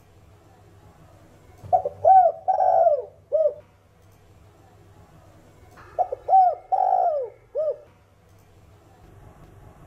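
Spotted dove cooing its song twice, about four seconds apart: each phrase is a few short arching coos, a longer rough middle note, then one short final coo.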